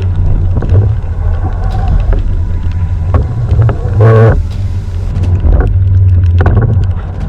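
Wind rumbling on the microphone over water noise on a kayak at sea, with scattered small knocks. About four seconds in there is a short, wavering pitched sound.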